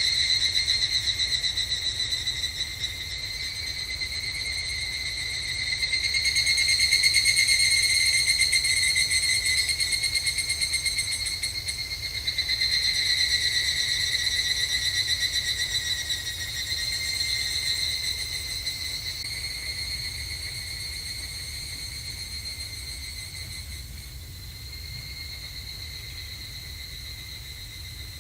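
Higurashi evening cicadas (Tanna japonensis) calling in overlapping choruses, a rapid, high-pitched pulsing song that swells and fades in waves and grows weaker near the end. A faint low rumble runs underneath.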